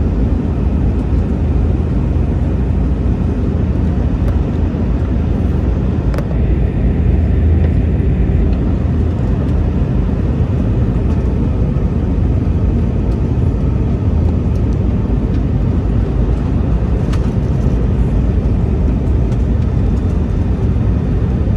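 Steady cabin noise of an Airbus A321-211 airliner in flight: an even, low rumble of airflow and CFM56 jet engines heard from a passenger seat. There are a couple of faint clicks.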